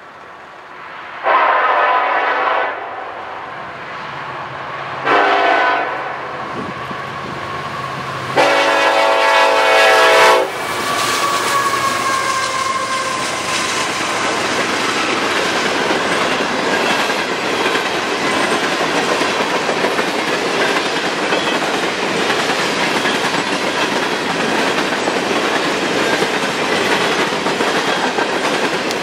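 Diesel freight locomotive's air horn sounding three blasts (long, short, long) as the train approaches. The lead locomotive then passes and a string of hopper cars rolls by, with a steady rumble and clatter of steel wheels on the rails.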